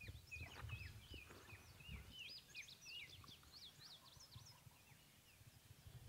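Faint bird calls: a busy run of short, high, downward-sweeping notes that thins out after about four and a half seconds. Low rustling and handling rumble of the camera in the first two seconds.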